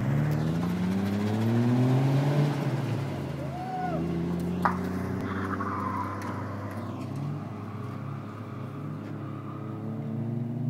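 Toyota Chaser JZX100 drift car's engine revving: the pitch climbs over the first two seconds, then drops back and wavers at a lower speed. A short squeal comes near four seconds, and a sharp click just after.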